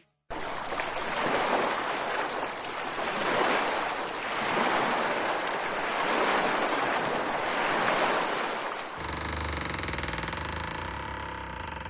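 Ocean waves washing in, a rushing noise that swells and ebbs every two seconds or so. About three-quarters of the way through, a low droning music bed comes in under it.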